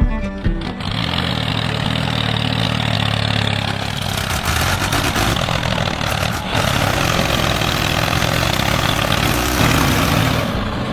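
A small engine running steadily with a constant low hum, starting about a second in.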